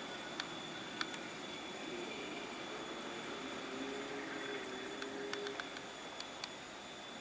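Distant train pulling away: a faint, wavering engine drone over a steady hiss, with a few faint clicks.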